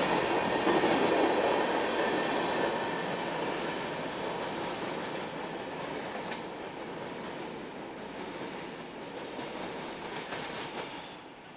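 Train rolling past on the rails, loudest at first and fading steadily as it moves away, dropping off about eleven seconds in.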